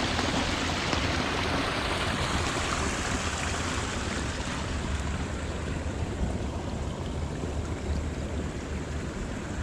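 Water rushing steadily over and out through the sides of a beaver dam, a continuous even rush.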